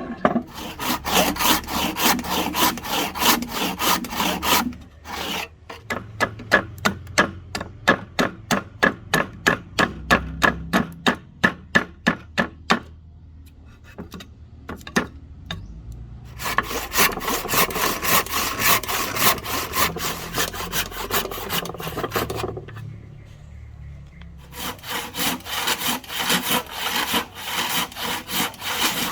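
A hand tool stroking back and forth across wood, in runs of quick strokes broken by short pauses. In the middle stretch the strokes come slower and more distinct, about three a second.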